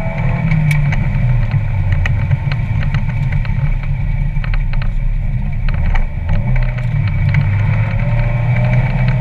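1996 Mazda Miata's 1.8-litre four-cylinder engine, breathing through an aftermarket header and cat-back exhaust, running under varying throttle so its note shifts up and down. Frequent sharp clanks come from the loose camera mount.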